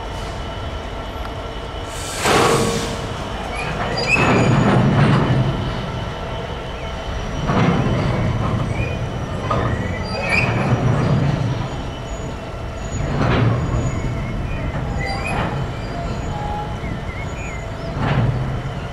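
Train wagons rolling past slowly, with a clatter of wheels over rail joints every two to three seconds and short wheel squeals over a steady rumble.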